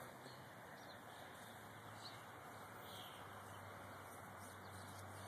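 Faint outdoor quiet: a steady hiss with a few faint, distant bird chirps.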